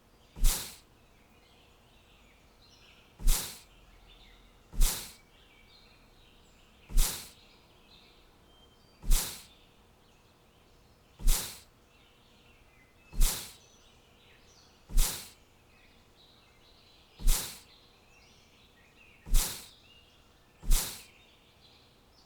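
Faint bird chirping, with a short, sharp noise burst about every two seconds, eleven in all, each dying away quickly.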